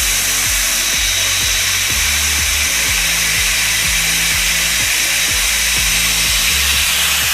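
Doliz BA 370 angle grinder, a 720-watt 12,000 rpm model, running steadily with a smooth, even high whine. Background music with a regular beat plays underneath.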